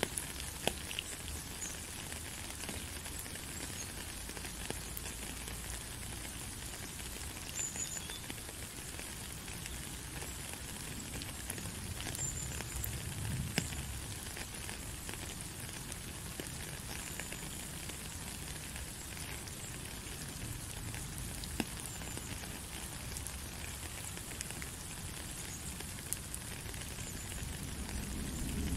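Steady rain: an even hiss of falling rain with scattered small drop ticks.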